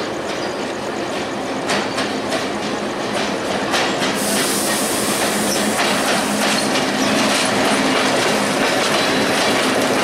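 WDM3A ALCO diesel-electric locomotive passing close by with its engine running, then intercity coaches rolling past, wheels clacking over the rail joints. The sound grows louder about four seconds in as the locomotive draws alongside.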